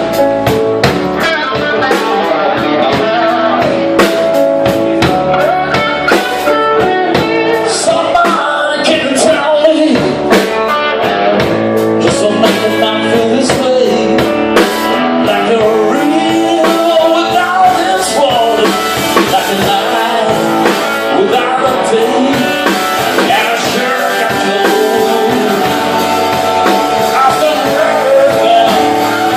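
Blues band playing live: an electric guitar carries bending lead lines over a rhythm section with drums keeping a steady beat.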